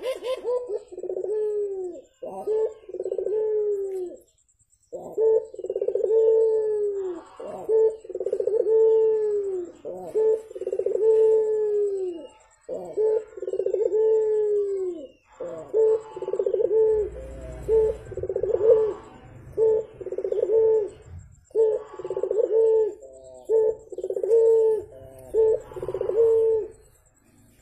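Puter dove (Barbary dove) cooing vigorously: a long run of low, arching coos, strung into phrases of a second or two with brief pauses between them.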